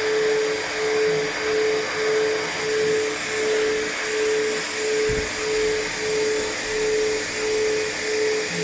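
Pet grooming blow dryer running steadily as it dries a cat's fur, its hum and rush of air pulsing evenly a little under twice a second.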